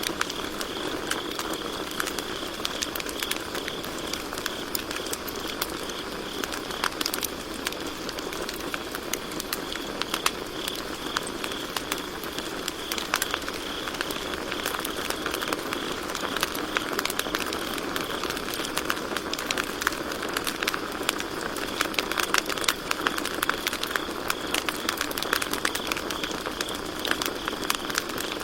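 Campfire crackling and popping steadily, with many small irregular snaps over a low hiss of burning wood, and crickets chirping in a steady high band behind it.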